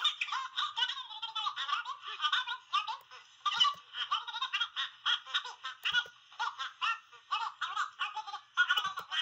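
High-pitched giggling laughter in rapid short bursts, sounding thin.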